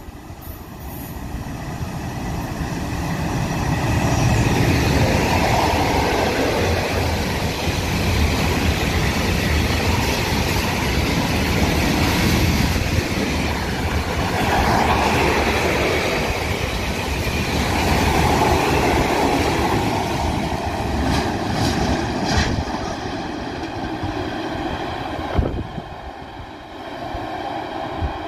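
Freight train of tank wagons hauled by an electric locomotive passing through a station: the sound grows as it approaches, then the wheels and wagons run by loudly, swelling and fading every few seconds, with a sharp click near the end as the train draws away.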